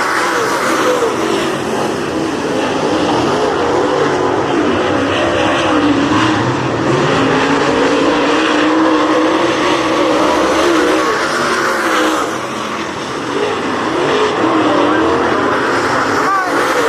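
Dirt-track race cars running laps at speed. Their engines drone steadily, the pitch rising and falling as the cars work through the turns, easing briefly about two-thirds of the way in.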